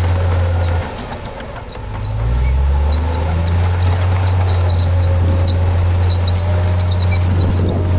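Heavy construction-machine diesel engine running with a deep steady drone; about a second in it drops off for a second or so, then climbs back up and holds steady again.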